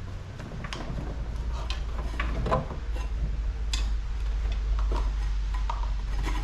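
Scattered light clicks and metallic taps as hand tools work on the sheet metal and copper tubing of an air conditioner being dismantled, over a steady low hum.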